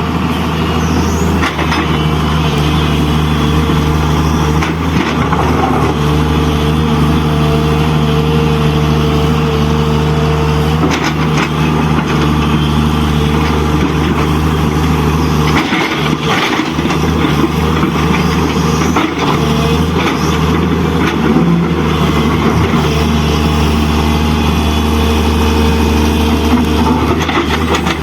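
Steady engine drone like an idling diesel truck, with a low hum and faint clicks, dipping briefly about halfway through.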